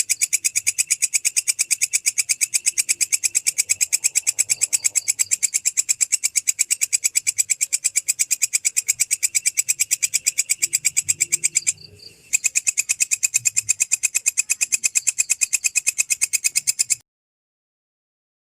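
A stridulating insect of the cricket kind singing a fast, even train of shrill pulses. It breaks off briefly about two-thirds through and stops shortly before the end.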